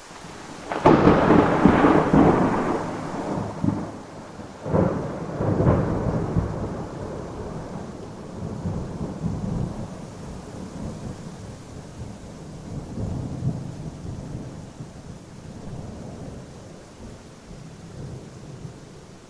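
Thunder over steady rain: a sudden loud clap about a second in, a second crash near five seconds, then a long low rumble that slowly dies away.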